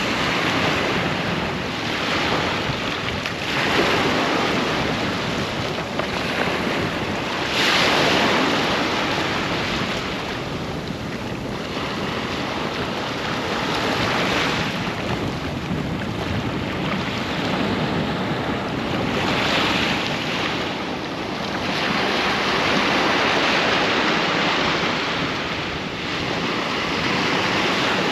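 Sea waves breaking and washing up a beach, a steady surf with surges every few seconds as each wave comes in.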